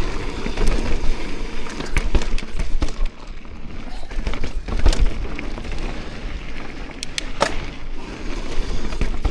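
Mountain bike rolling fast down a dirt trail: steady tyre and rolling noise with clattering from the bike and sharp knocks over bumps, several times.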